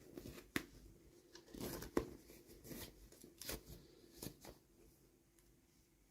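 Toy packaging being handled and opened by hand: crinkling and tearing with several sharp clicks, dying away about four and a half seconds in.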